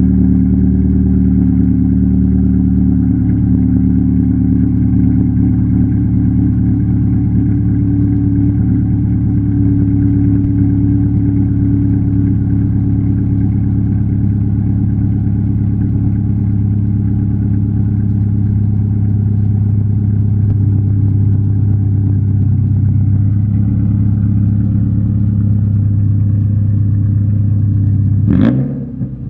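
2007 Subaru Legacy's 2.5-litre flat-four engine running through a dual straight-piped exhaust with no mufflers. It idles steadily, then gets one quick blip of the throttle near the end.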